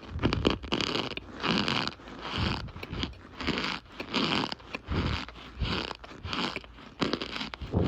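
Squeaky crunching of cornstarch chunks being squeezed and crumbled, a short gritty squeak-crunch about once a second.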